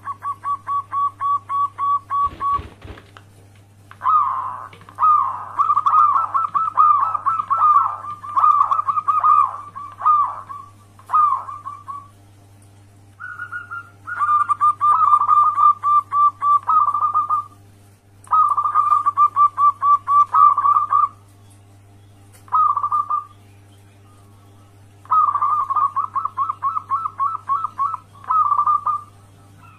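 Zebra dove (perkutut) cooing: bursts of rapid, evenly repeated staccato notes a few seconds long, broken by short pauses, over a steady low hum.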